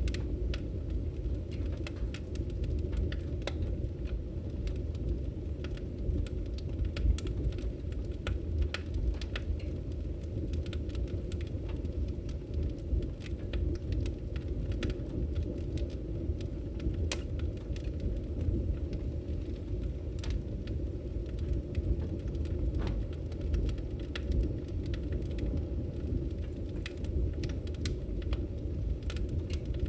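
Wood fire in a fireplace crackling: irregular sharp pops and snaps scattered over a steady low rumble of the burning flames.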